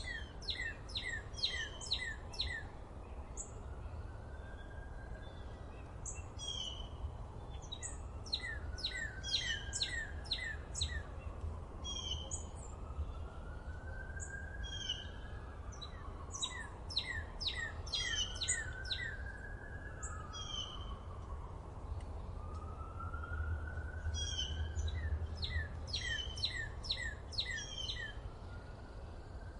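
Songbirds singing: quick runs of six to eight high, falling notes, repeated every few seconds, over slower, lower whistles that rise and fall. A steady low rumble runs underneath.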